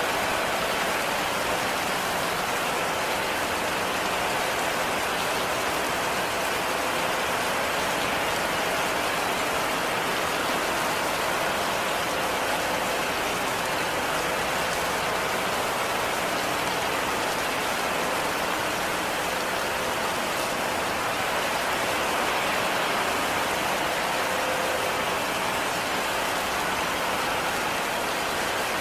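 Heavy rain falling steadily, an even dense hiss of drops with no pauses or single louder events.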